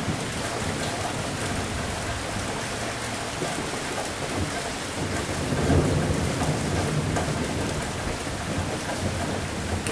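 Steady rain pattering down, with a low rumble of thunder swelling up about halfway through and fading over a second or two.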